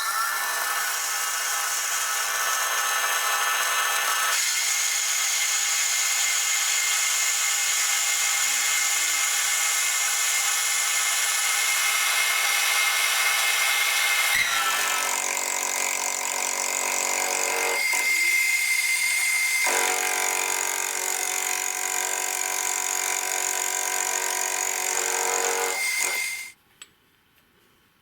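Electric power tool running steadily under load. Its tone shifts a few times, around 4 and 14 seconds in and briefly near 18 to 20 seconds, before it switches off abruptly near the end.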